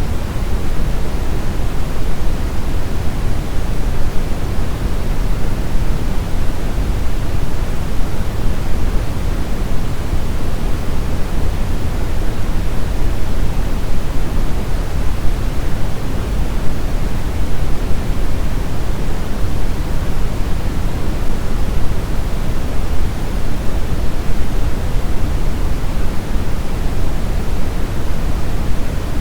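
Steady brown noise: an even, deep rushing hiss, strongest in the low end.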